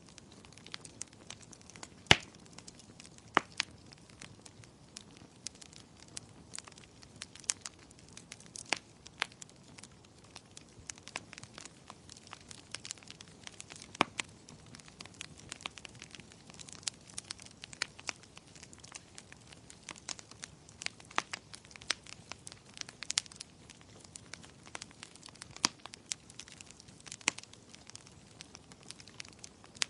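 Wood fire crackling, with irregular sharp pops, the loudest about two seconds in, over faint steady rain.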